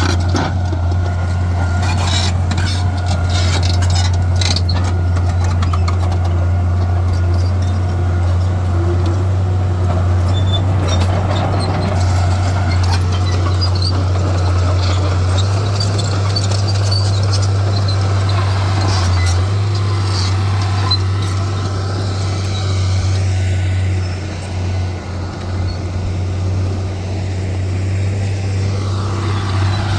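Heavy diesel engine of earthmoving machinery running steadily with a deep low hum, its level dipping briefly about three-quarters of the way through.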